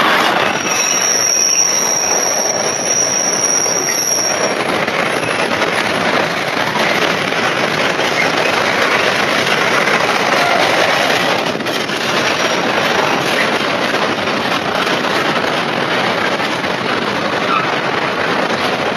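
Container freight train passing close by: the diesel locomotive going past at the start, then the long line of container flat wagons rumbling and clattering along the rails. A high, steady wheel squeal sounds from about half a second in and lasts about four seconds.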